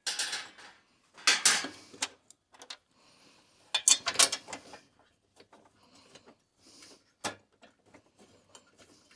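Hand tools and metal parts being worked, clicking and rattling in several short bursts, with a single sharp click about seven seconds in.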